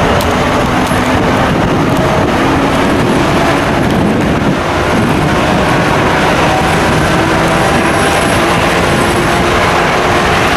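Train running past at close range: a steady, loud rumble with faint high squealing tones.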